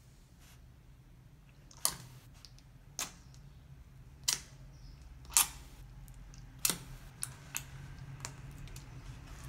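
Homemade slime being worked by hand, giving off a series of sharp pops and short squelches, about eight in all, irregularly spaced, the loudest about halfway through.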